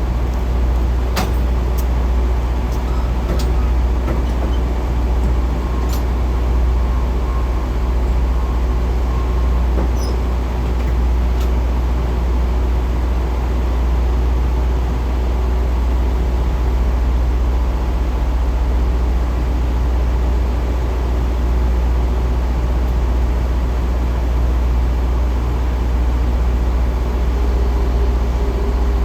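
Semi-truck diesel engine running steadily, a constant low rumble, with a few light clicks in the first several seconds.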